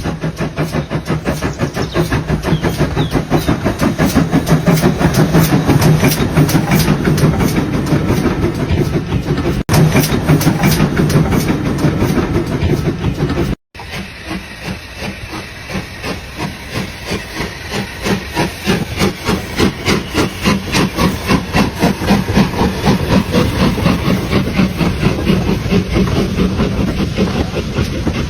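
Steam locomotive chuffing steadily, with rapid rhythmic exhaust beats of about four to five a second and a hiss of steam. The sound drops out for an instant about halfway through.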